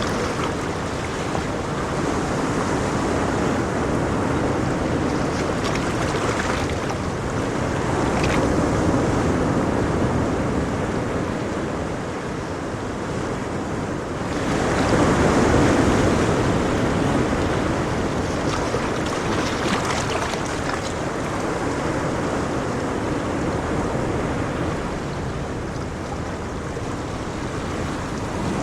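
Ocean waves breaking and washing on a shore, a steady rush that swells and ebbs; the biggest wave comes about halfway through.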